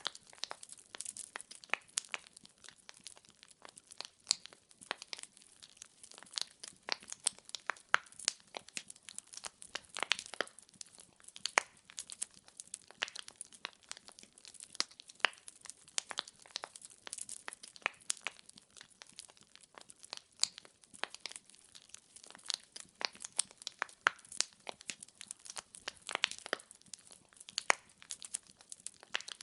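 Wood fire burning in a fireplace: irregular sharp crackles and pops of burning logs over a faint hiss, several pops a second, some much louder than the rest.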